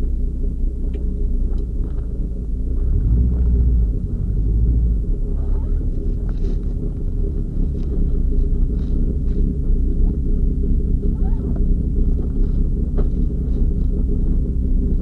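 Subaru Legacy rally car's engine idling steadily, heard from inside the cabin, its low rumble swelling briefly about three seconds in.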